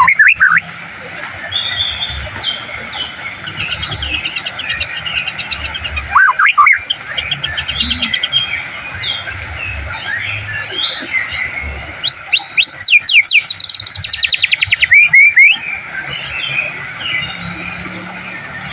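White-rumped shama (murai batu) singing a varied run of chirps and trills over a background of other birdsong, with loud runs of rapid sweeping whistles from about twelve to fifteen and a half seconds in.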